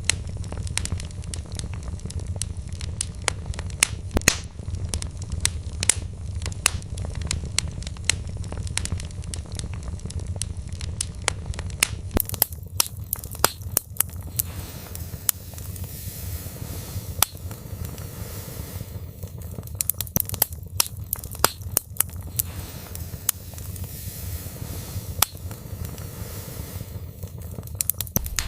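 Burning logs in a fireplace crackling and popping: many sharp, irregular pops over a low, steady rumble of flames. About twelve seconds in, the low rumble fades and the crackles turn brighter and crisper.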